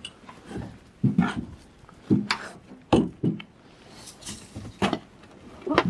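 Footsteps: uneven knocks and scuffs, a step every half second to a second, with a short hiss about four seconds in.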